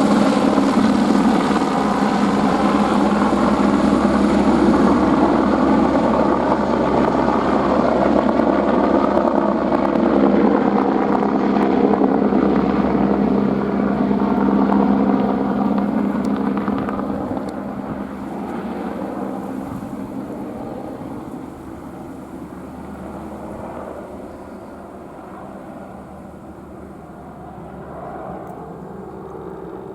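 Airbus AS350 single-turbine helicopter flying, a loud steady engine and rotor sound. After about 16 seconds it fades steadily as the helicopter moves away.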